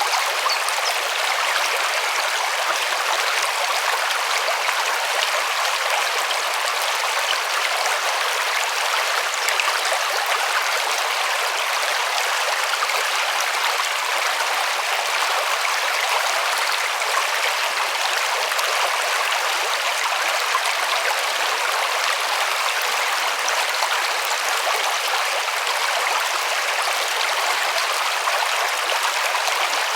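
River water running over stones, a steady rushing and babbling that stays even throughout.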